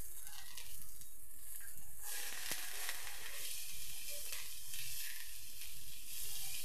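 Shredded wet cabbage sizzling in hot oil in a wide metal pan, a steady hiss, as it is stirred with a metal spatula, with a few faint scrapes.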